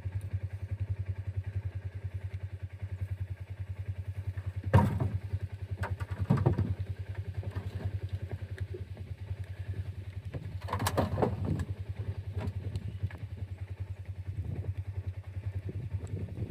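A small engine running steadily, with loud clattering knocks about five seconds in, again at six and a half, and around eleven seconds.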